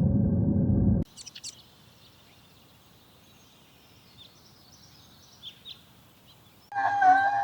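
Faint, scattered bird chirps over quiet outdoor ambience. A loud low noise cuts off about a second in, and near the end a loud, wavering pitched call begins.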